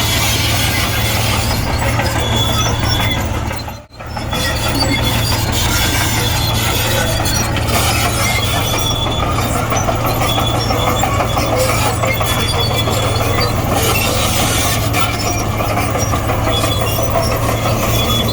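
Komatsu D58E crawler bulldozer working: its diesel engine running steadily under load while the steel tracks clatter and give short high squeals. The sound drops out briefly about four seconds in.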